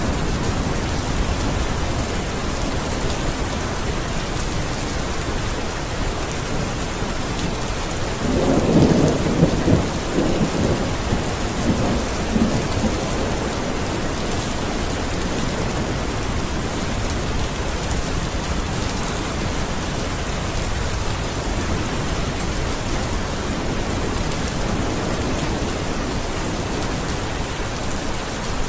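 Steady heavy rain, with a roll of thunder rumbling about eight seconds in and dying away over several seconds.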